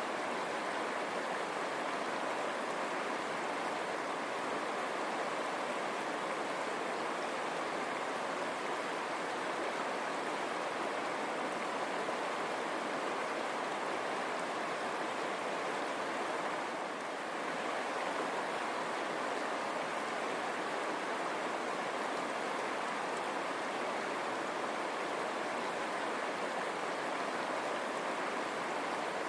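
River water running over stones, a steady rushing that dips slightly for a moment about two-thirds of the way through.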